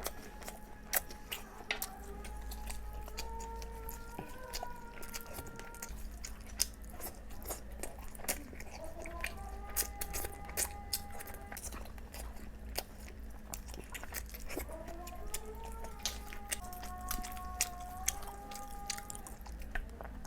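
Close-miked chewing and wet mouth smacking of a person eating boiled eggs and chicken curry: many sharp, irregular clicks with no pause.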